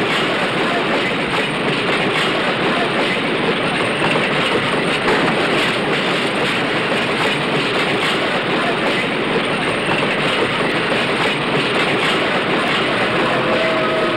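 Moving steam-hauled freight train: a loud, steady noise of wheels running on the rails, heard through an early-1930s film soundtrack.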